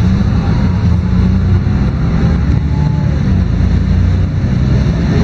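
LiAZ-5292.22 city bus's diesel engine running steadily as the bus drives, heard from inside the bus, with road noise.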